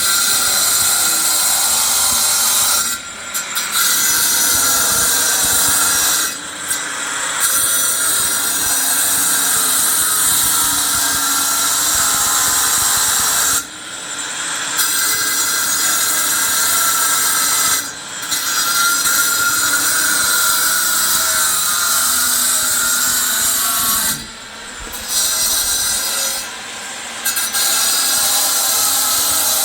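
A power tool running loudly and steadily, stopping or easing off briefly about six times and then running on.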